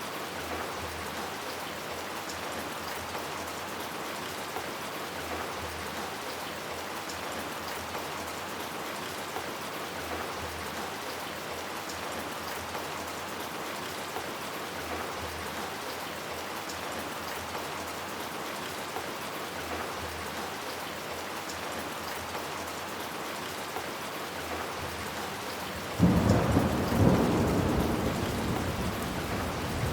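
Steady rain falling, then near the end a sudden loud clap of thunder that carries on as a low rumble.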